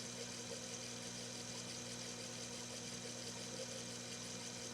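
Mini lathe running steadily under power, its carriage traveling on the leadscrew feed: an even motor hum with a faint high whine and no change in speed.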